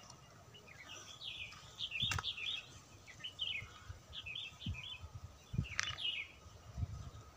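Small birds chirping, in quick clusters of short high notes repeated every second or so, with a few soft low thuds.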